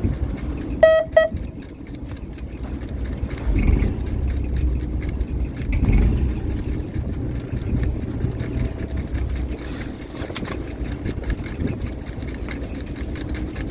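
Fishing boat's engine running with a steady low rumble that swells now and then. Two short high beeps sound close together about a second in.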